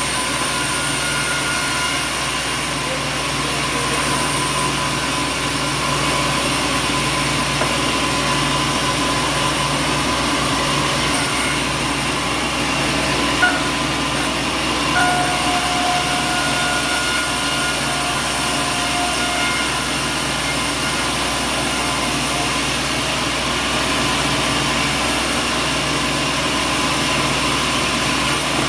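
Sawmill machinery running steadily: a dense mechanical drone with a short sharp knock about halfway through and a faint whine that comes and goes soon after.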